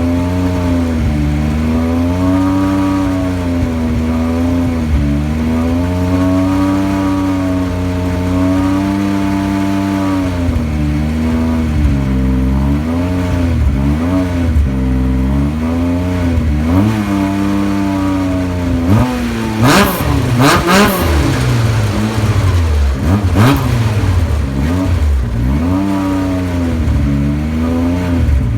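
Yamaha Viper RTX SE snowmobile's three-cylinder four-stroke engine, breathing through an MBRP Race Can exhaust, being blipped repeatedly: the revs rise and drop back every couple of seconds, then come in quicker blips. A few sharp bursts of noise come about two-thirds of the way through.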